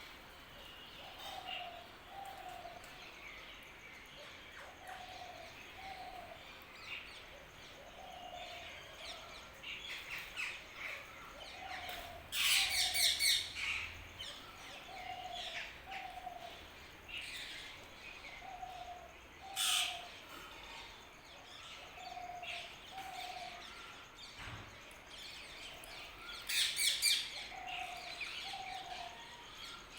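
Birds calling and chirping. A low two-note call repeats about every two seconds throughout. Louder, shrill bursts of rapid chirping come near the middle, about two-thirds through, and near the end.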